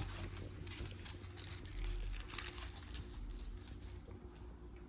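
Faint rustling and a few light taps as a plastic coolant reservoir and its packaging are handled, over a steady low hum.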